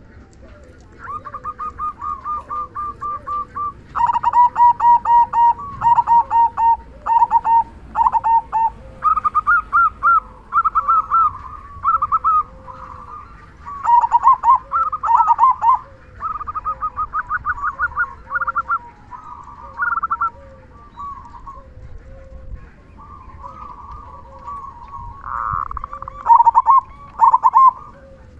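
Zebra doves (perkutut) cooing in rapid runs of short, clear notes, grouped in phrases a second or two long. Underneath runs a fainter, lower coo repeating about once a second.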